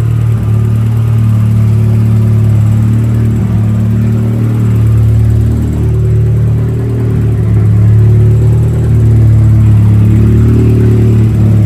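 Turbocharged Nissan Hardbody pickup engine idling loudly just after its first start, with the ignition timing being checked. The idle is steady, with a slight sag in level about halfway through before it picks back up.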